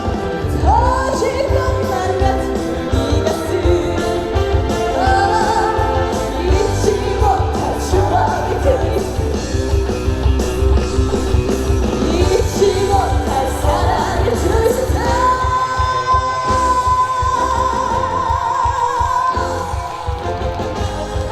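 Female trot singer singing live over a full band backing. The song builds to a long held high note with vibrato near the end.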